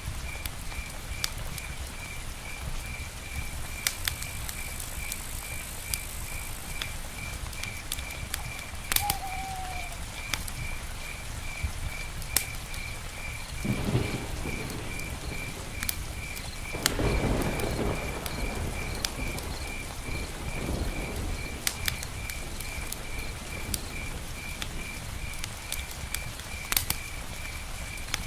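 Steady rain with sharp crackles from a campfire, an insect chirping about twice a second, and low rumbles of distant thunder about halfway through.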